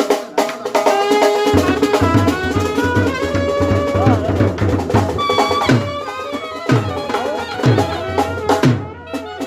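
Brass band music: a melody on wind instruments over fast, dense drumming, with a deep bass coming in about one and a half seconds in.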